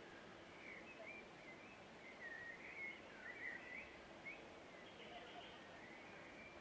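Faint distant birdsong: a run of short warbling chirps, busiest in the middle, over a steady low background noise of outdoor ambience.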